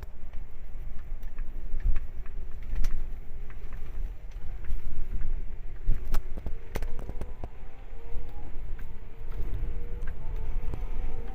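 Strong wind buffeting the microphone in a heavy low rumble, with scattered sharp knocks and rattles. Faint music comes in about halfway through.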